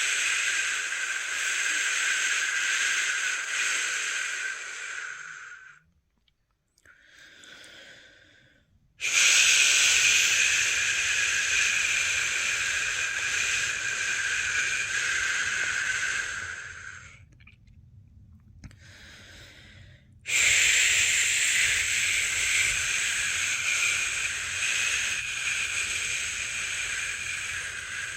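A person making long, steady 'shhh' shushing sounds to settle a newborn, each held for several seconds. Three long shushes are separated by short pauses holding fainter ones.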